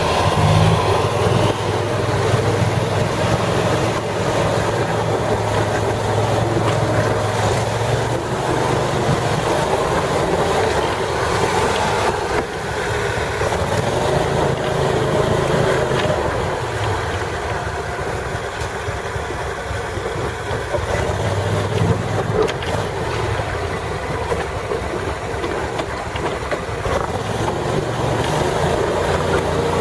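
Amphibious six-wheel ATV's engine running steadily, its pitch shifting a little now and then as it drives along a flooded trail.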